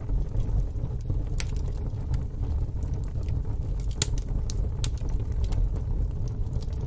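Fire pit burning, with a few sharp crackles and pops, the loudest about four seconds in, over a steady low rumble.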